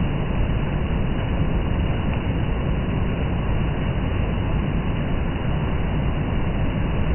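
Heavy rain falling: a steady, dense noise with a strong low rumble and no breaks.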